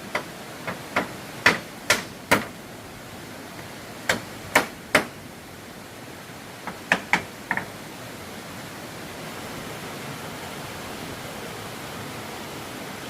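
Hammer blows on wood, struck in three short runs of a few quick hits each, over a steady hiss that grows a little louder after the hammering stops.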